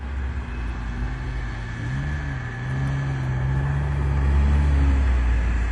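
A vehicle engine running with a steady low rumble and hum. The hum dips and rises once about two seconds in, and the sound builds a little toward the end.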